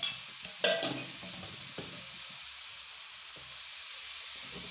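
Grated radish and spices sizzling in oil in a kadhai over a lit gas burner: a steady hiss, with two short knocks in the first second.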